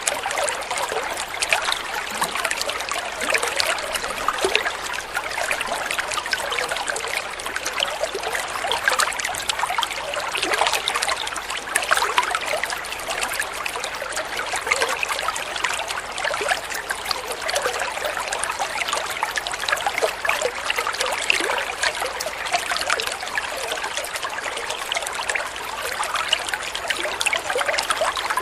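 Flowing water trickling and burbling steadily, a continuous splashing murmur full of small quick droplet sounds.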